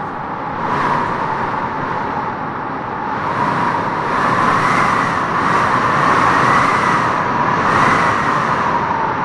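Strong wind howling: a steady rush with a wavering whistle that rises and falls, swelling to its loudest a few seconds in.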